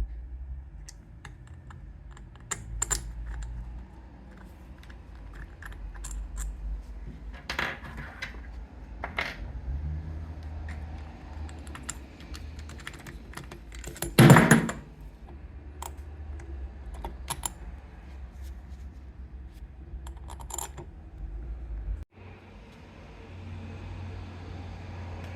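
Small metal parts and tools clicking and clinking as they are handled and set down, with one louder, longer metallic clatter about two-thirds of the way through.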